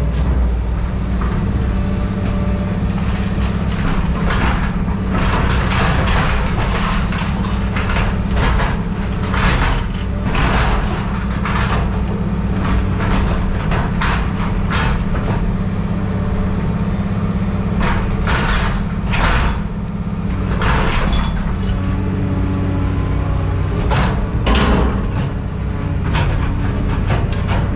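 A machine running with a steady low hum, overlaid by frequent irregular clanks and rattles of scrap metal being handled.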